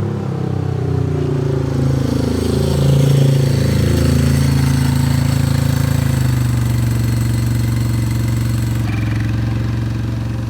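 Ducati V-twin motorcycle engine running, its pitch dropping over the first few seconds as it slows, then holding at a steady speed.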